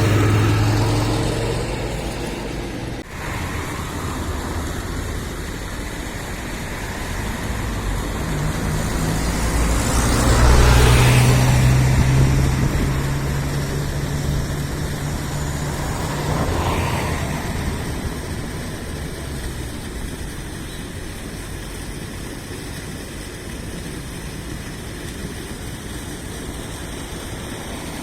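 Road traffic: vehicles passing with a steady low hum, the loudest pass swelling and fading about ten to twelve seconds in, and a smaller one around seventeen seconds.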